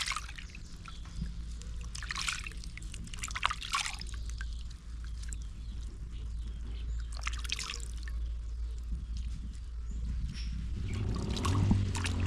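Water being poured and splashed in short bouts, about five times, with dribbling between them, over a low steady hum.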